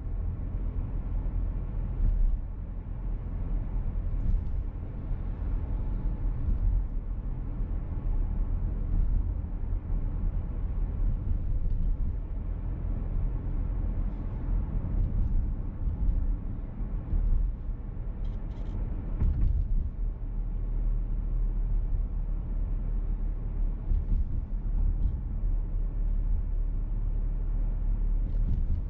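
Inside the cabin of a VW T-Roc petrol car on the move: steady low road and engine rumble, with a few faint light ticks now and then.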